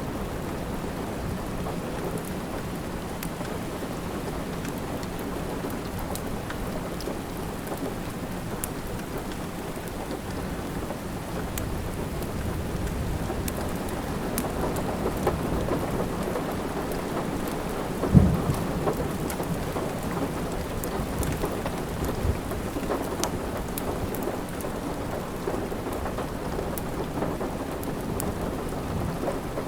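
Steady rain with low rumbling thunder, over the crackle of a wood fire in a fireplace, with small snaps scattered throughout. A single sharp pop stands out a little past halfway.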